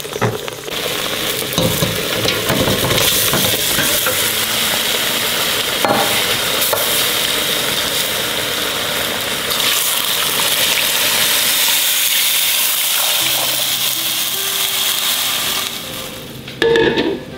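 Spice paste and chicken pieces frying in oil in a stainless steel pot, a steady loud sizzle, stirred with a wooden spoon. The sizzle drops away about sixteen seconds in, followed by a brief louder splash-like burst.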